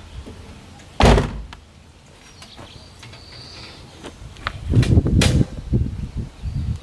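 A door shuts with a sharp bang about a second in, followed near the end by a couple of seconds of duller knocks and rumbling handling noise.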